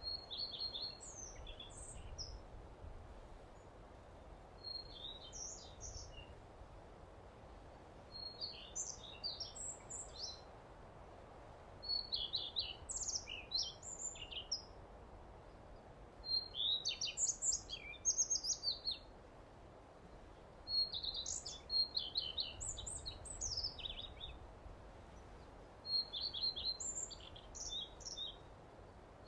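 Birdsong: bursts of quick, high chirping notes, each burst lasting a second or two and coming every few seconds, over a faint steady background noise.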